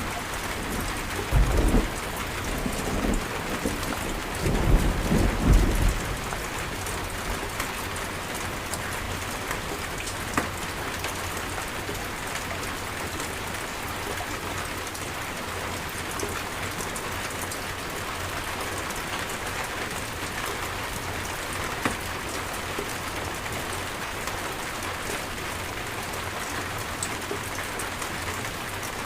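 Steady heavy rain falling on surfaces, with two low rumbles of thunder in the first few seconds, the second the longer.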